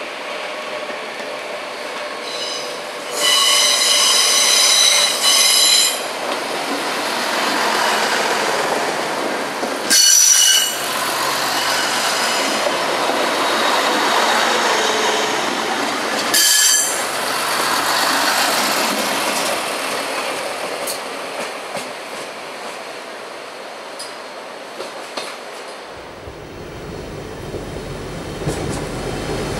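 A Deutsche Bahn class 643 Talent diesel railcar running past on the track, its rolling noise swelling and then fading. About three seconds in, a high-pitched wheel squeal lasts roughly three seconds. Two brief loud bursts come near the middle.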